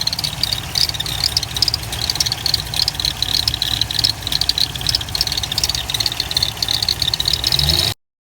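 First-generation Cadillac CTS-V's pushrod V8 running with a rapid, sharp ticking over its low rumble, which the owner takes for lifter noise. The sound cuts out for a moment near the end.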